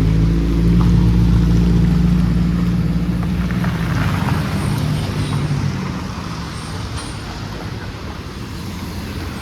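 A large road vehicle's engine running close by, a steady low drone that fades away over the first half, leaving steady street traffic noise.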